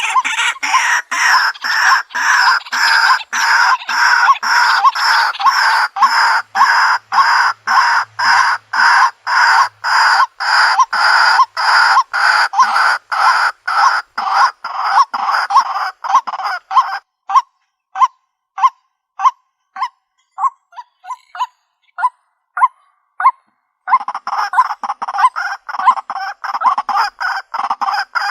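White-breasted waterhen calling: a long, loud series of repeated croaking notes, about three a second. Well past halfway the series thins to scattered single notes for several seconds, then picks up again near the end.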